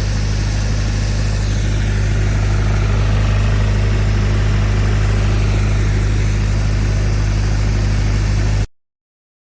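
56-horsepower diesel engine of a high-pressure washer running steadily at a constant speed, with a hiss above its low drone. The sound cuts off suddenly near the end.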